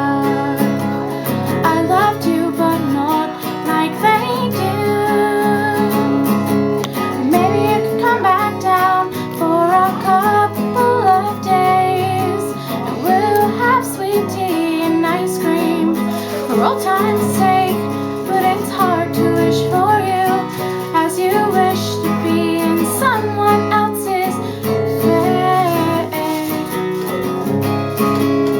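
Female voice singing a song over acoustic guitar strummed and picked, a home-recorded acoustic demo.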